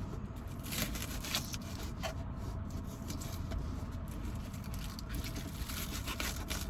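Knife chopping green onions on a cutting board: irregular light taps and scrapes over a steady low rumble.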